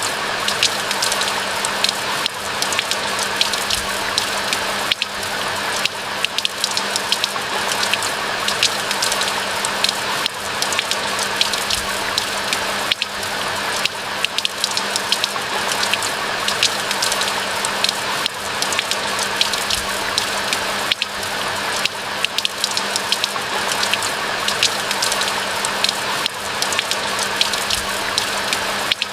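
Steady rain falling, with a constant hiss and dense, close drop ticks throughout, plus a faint steady low hum underneath.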